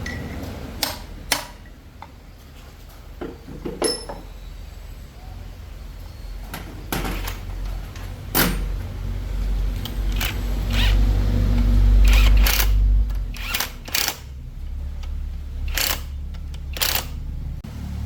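Scattered sharp metal clanks and taps of tools and parts being handled during truck rear axle work, over a low steady rumble that grows louder for a few seconds in the middle.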